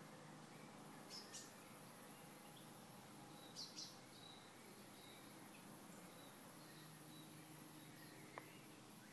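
Near silence: faint outdoor hillside ambience with a steady high insect hum and two pairs of short, faint bird chirps, the first about a second in and the second a few seconds later.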